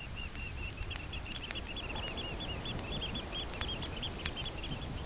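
A bird calling in a rapid series of short, high, squeaky notes, about six a second, that stop near the end. Occasional sharp crackles come from a small driftwood campfire over a steady low rumble of surf or wind.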